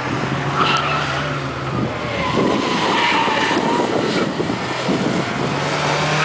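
Ford Fiesta rally car's engine revving hard under acceleration as it drives through the corners and away along the straight.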